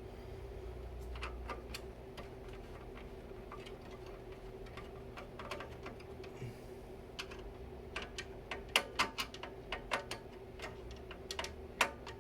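Irregular small metallic clicks and taps of screws and a screwdriver being handled while working on a PC case, sparse at first and coming thick and fast over the last few seconds, over a steady low hum.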